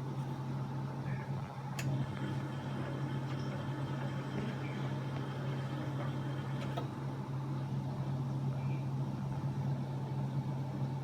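Washing machine running with a steady low hum, with a couple of faint clicks about two and seven seconds in.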